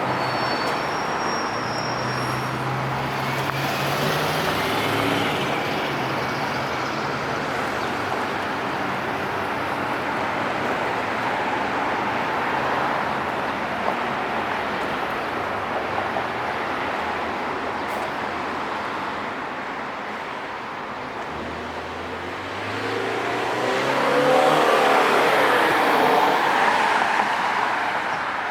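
Downtown street traffic: a steady wash of tyre and engine noise from passing cars, with low engine hums coming and going. A louder vehicle passes near the end.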